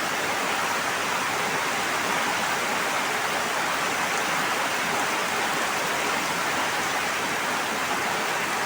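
Steady, even rushing of water, like a stream, waterfall or heavy rain, with no swells or separate splashes.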